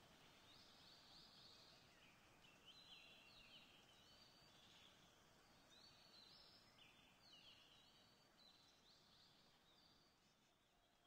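Near silence, with faint, high-pitched bird chirps coming again and again.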